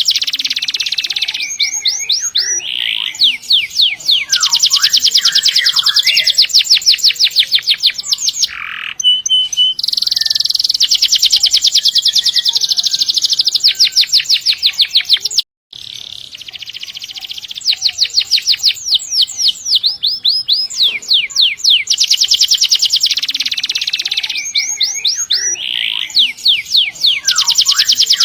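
Domestic canary singing long, rapid trills ('rolls'): very fast repeated high notes held for several seconds at a stretch, broken by short pauses and a brief cut-out about halfway through.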